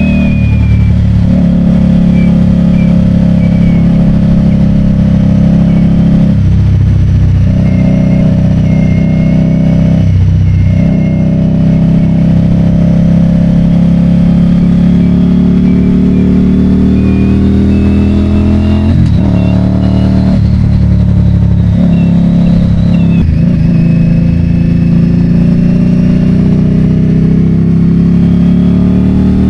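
Harley-Davidson Road King's V-twin engine running under way on the road. Its note climbs steadily and drops back briefly several times, as through gear changes.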